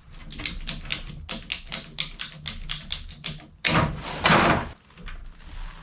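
Ratcheting PEX pipe cutter clicking quickly, about four or five clicks a second, as it closes on the pipe. About three and a half seconds in the clicking stops and a louder rasping noise follows for about a second.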